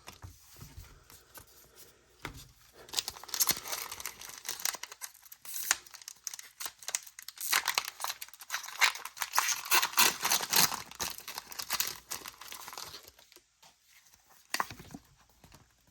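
Foil wrapper of a Pokémon trading card booster pack being torn open and crinkled: a dense crackling from about three seconds in until about thirteen seconds in, with quieter handling before and a few crinkles near the end.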